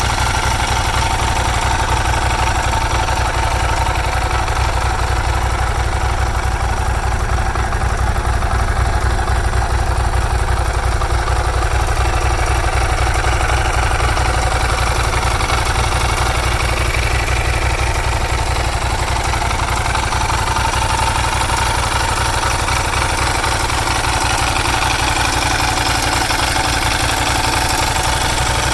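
Motorcycle engine idling steadily, a fast even low rumble.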